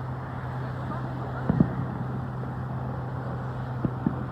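Distant fireworks bursting as short low thuds, in two pairs: one about a second and a half in, the other near the end. A steady low hum runs underneath.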